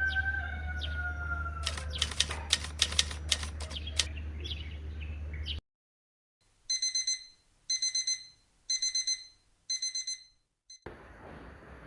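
Digital alarm clock beeping: four groups of rapid high beeps, about one group a second. Before it there is a steady low hum with a quick run of clicks, which cuts off suddenly into silence.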